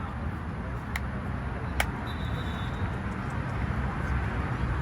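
Steady low outdoor rumble, with two sharp knocks about one second and nearly two seconds in, and a faint, brief high tone just after.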